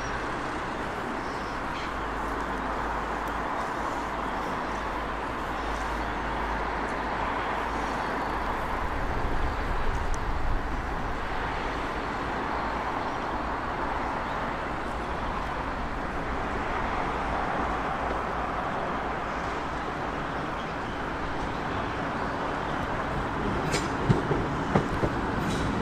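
A train running by: a steady rumble and rushing noise that swells slightly about ten seconds in, with a few sharp clicks near the end.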